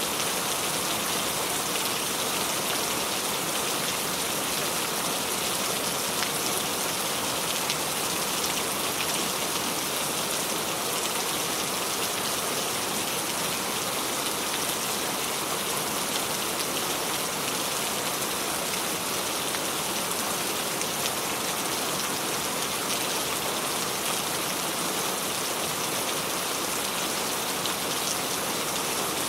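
Steady rain falling on a surface: an even hiss of rain with scattered drops pattering through it.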